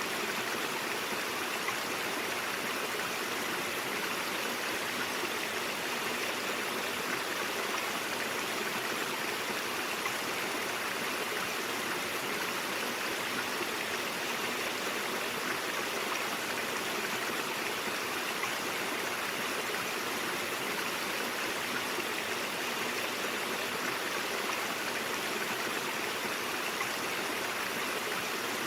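Stream water flowing and burbling over rocks, a steady rushing sound.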